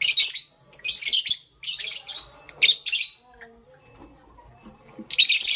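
Lovebird chirping: four high-pitched chirping bursts in quick succession over the first three seconds, a pause, then another burst near the end.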